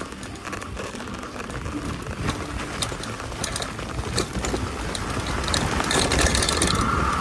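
Mountain bike riding over a gravel fire track: tyres crunching and the bike rattling and clicking, getting louder towards the end, with a brief high squeal near the end.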